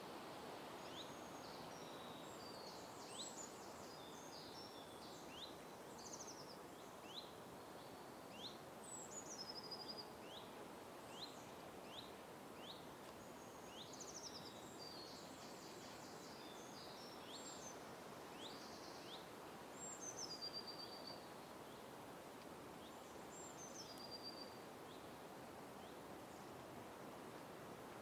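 Several birds calling: repeated short upward chirps and higher whistled notes that drop in pitch, over a faint steady background rush.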